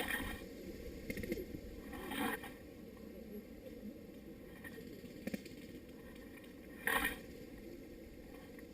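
Scraping and rustling close to the microphone, with four short, louder noise bursts, the loudest near the end.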